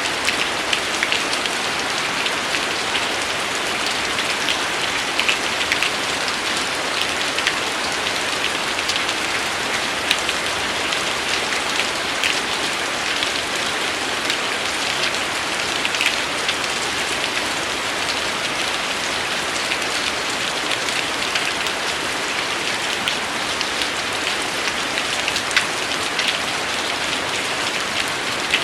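Steady rain falling, an even hiss dotted with many sharp ticks of individual drops striking a surface.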